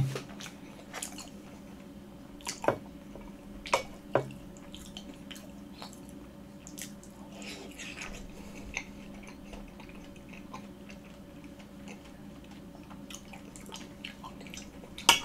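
Close-miked chewing of soft food, with scattered wet mouth clicks and smacks. Just before the end, a metal fork clinks sharply against a ceramic plate.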